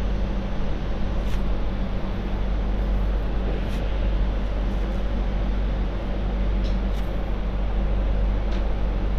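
MTR Light Rail Phase IV two-car train running along the track: a steady rumble with a low, even hum from the running gear. A few faint short ticks come through now and then.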